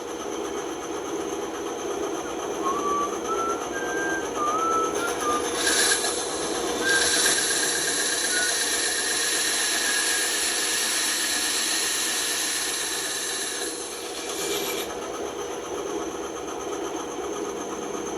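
Band saw running steadily, with a louder, brighter stretch from about six to fourteen seconds in as the blade cuts through wood.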